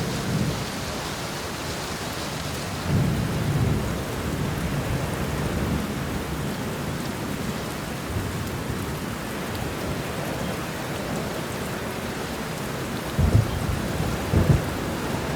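Steady heavy rain falling, with thunder rumbling low underneath: a swell about three seconds in and two sharper low claps near the end.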